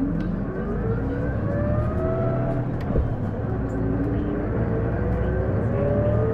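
Isuzu Erga city bus heard from inside, accelerating: over the engine a whine climbs in pitch, drops back about halfway through and climbs again twice. This whine on every acceleration is the bus's abnormal noise, which sounds like an automatic transmission and which the uploader suspects comes from the transmission.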